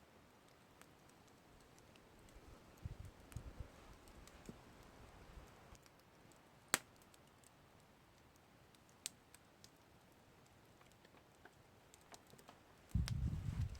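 Campfire crackling quietly: sparse sharp pops over a faint hiss, the loudest about seven seconds in. A short low rumble comes about three seconds in and again near the end.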